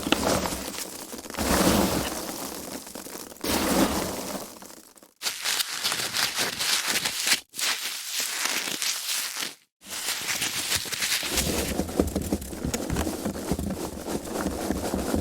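Foam packaging being handled and squeezed: a dense, scratchy run of handling noise in several takes, broken three times by brief silent gaps.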